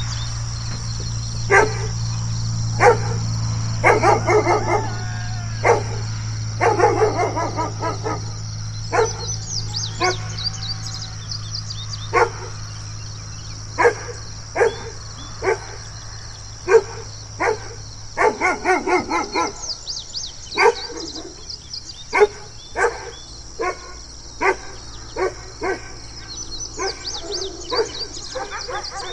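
A large shepherd-type guard dog barking aggressively, single barks and quick runs of barks at irregular intervals. A steady low hum sits under the first two-thirds.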